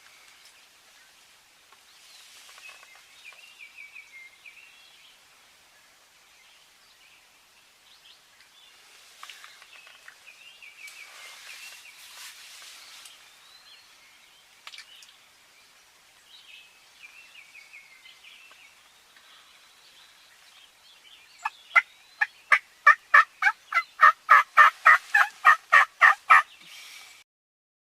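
Wild turkeys calling: faint, distant rattling gobbles through the first half, then near the end a loud run of quick repeated turkey yelps, three or four a second for about five seconds, that cuts off abruptly.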